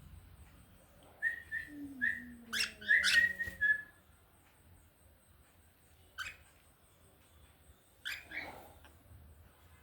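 A cockatiel whistling and calling: three short clear whistle notes, then a brief run of louder, harsher chirps. After a pause come two more single calls.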